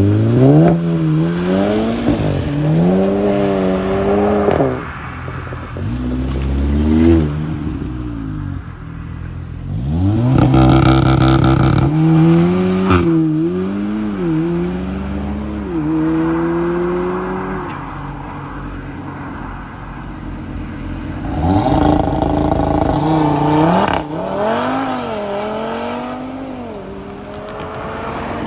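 Sports car engines accelerating hard away one after another. Each revs up through the gears, its pitch climbing and then dropping at every shift. There are three main pulls: right at the start, about ten seconds in, and about twenty-one seconds in.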